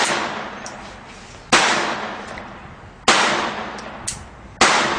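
Pistol shots fired at an even pace, about one and a half seconds apart: one right at the start, then three more, each ending in a long echoing decay. Fainter sharp ticks fall between some of the shots.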